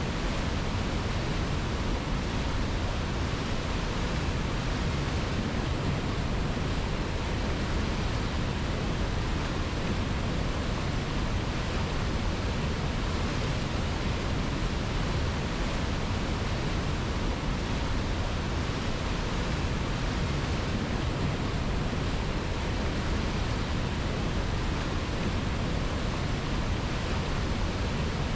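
Steady rushing of river water: an even, unbroken hiss with no change in level.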